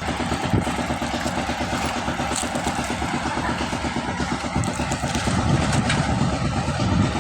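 Vehicle engine running on the move, with rough, gusty wind noise over it.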